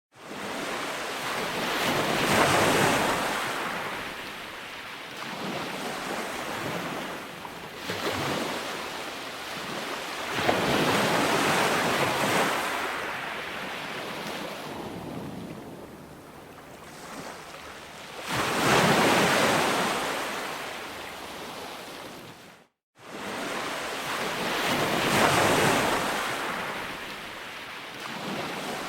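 Calm ocean waves breaking and washing onto a beach, each wave swelling and fading every several seconds. The sound cuts out for a moment about two-thirds of the way through.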